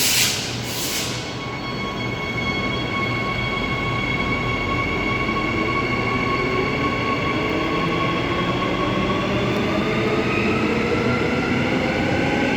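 Perth suburban electric multiple-unit train: its electric drive whines in several steady tones that begin to rise in pitch about two-thirds of the way through as the train picks up speed. A couple of short hissing bursts come at the very start.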